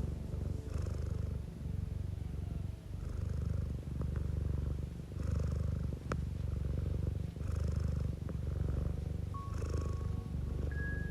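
Domestic cat purring: a continuous low rumble that swells and eases with each breath, about every one and a half to two seconds, with a few faint clicks.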